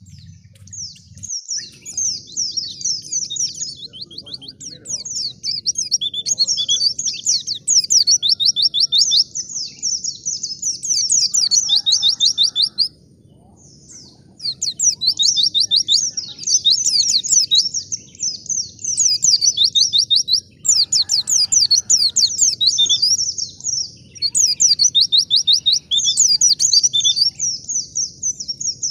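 White-eye (pleci) singing a long, rapid, high twittering song in fast phrases, with a brief pause about halfway through.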